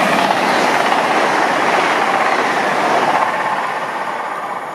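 Lumo Class 803 electric train passing through the station at speed without stopping. A loud rush of air and wheel noise peaks as the front goes by, then slowly fades as it draws away.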